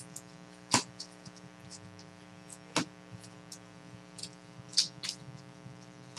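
Trading cards being handled and set down: a few sharp taps and clicks with softer ticks between, over a steady electrical hum.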